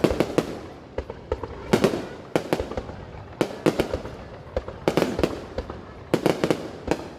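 Aerial fireworks bursting in a rapid, irregular series of sharp bangs, often several a second in clusters, each trailing off in a short echo.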